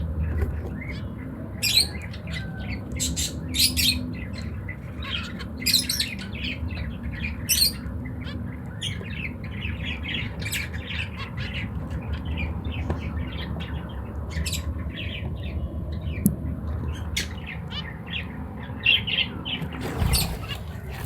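Finches making short, repeated calls at irregular intervals, over a steady low hum.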